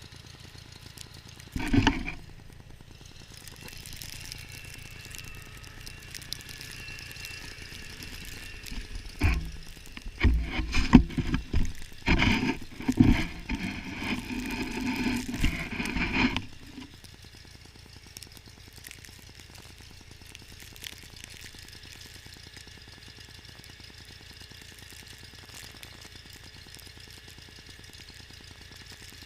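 John Deere 318 garden tractor engine running steadily at idle. A sharp knock comes about two seconds in, and a run of loud irregular knocks and rattling follows from about nine to sixteen seconds in.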